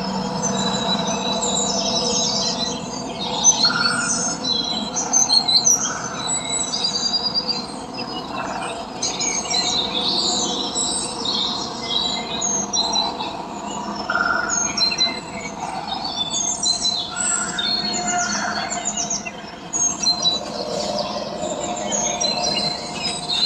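Many birds chirping and calling over one another, with steady held tones underneath.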